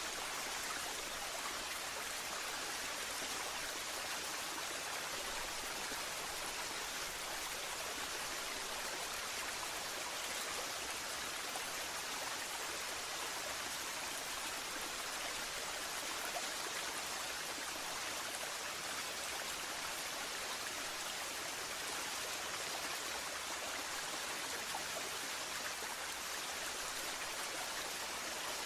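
Waterfall, falling water rushing steadily and evenly, a bright hiss with little low rumble.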